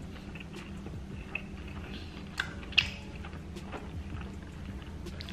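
A man chewing a mouthful of burrito with his mouth closed, with small wet mouth clicks and two sharper smacks about halfway through, over a steady low hum.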